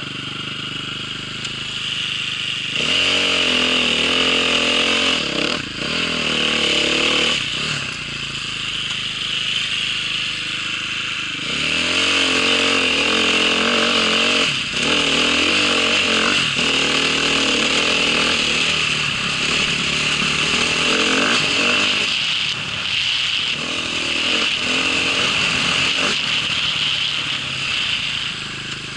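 A small vehicle engine running and revving up and down repeatedly, louder in two long stretches, over a steady high hiss.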